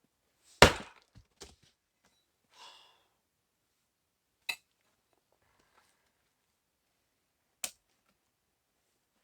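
Wood being chopped with an axe or hatchet: one heavy chop with a few smaller knocks just after, then two more sharp cracks several seconds apart.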